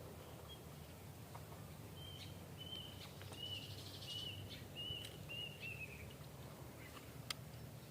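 A bird calling: a run of about eight short, high, evenly spaced notes starting about two seconds in, the last ones falling slightly, over a steady low outdoor background. A single sharp click near the end.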